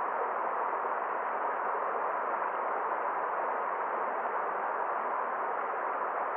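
Forest stream flowing over rocks: an even, unbroken rush of running water with no separate splashes.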